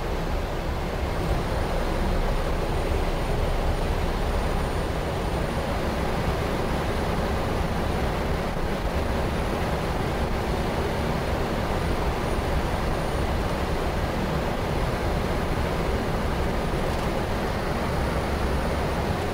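Steady flight-deck noise of a Boeing 777-200 in flight: an even rush of airflow and engine and air-conditioning hum with a low rumble, and a faint thin high whine that comes in about a second in.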